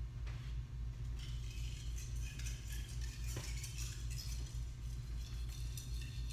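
Carbon-steel gyuto blade stroked back and forth across a fine 6000-grit whetstone, a light scratchy hiss with a couple of sharp ticks, over a steady low hum.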